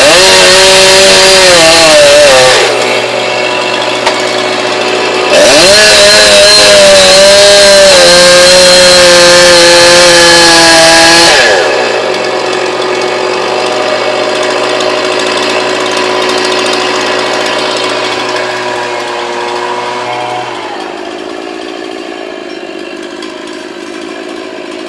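Chainsaw run at full throttle twice, briefly and then for about six seconds, dropping back to idle between the runs and after them. The idle fades away near the end.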